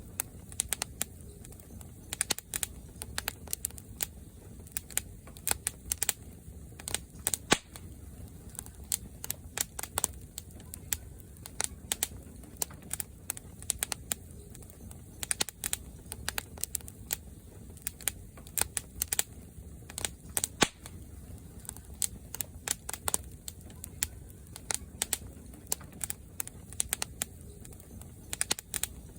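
Fire crackling: irregular sharp pops and snaps, a few of them loud, over a steady low rumble.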